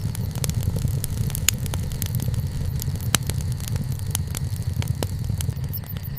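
Wood campfire crackling, with frequent irregular sharp pops (two louder ones about a second and a half and three seconds in) over a steady low rumble.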